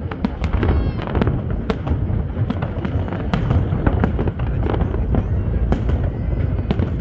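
Fireworks going off in rapid succession: a dense run of sharp bangs and crackles over a continuous low rumble.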